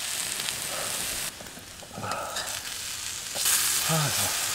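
Food sizzling in a frying pan over a campfire, a steady hiss that drops away abruptly about a second in and comes back strongly near the end.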